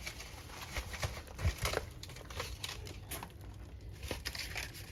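Dry kindling and paper being handled: irregular crinkling and crackling with scattered sharp clicks, a few louder ones about a second or two in.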